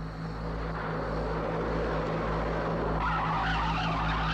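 A car's tyres screeching as it skids. The noise builds, and a shrill, wavering squeal sets in about three seconds in, over a low steady hum.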